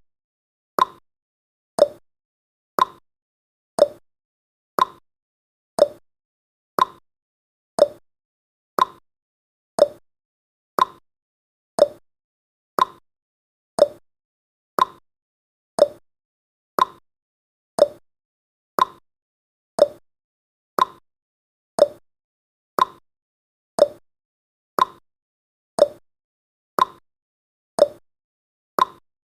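Clock-style ticking of a countdown timer's sound effect: short, sharp ticks, one a second, steady and evenly spaced.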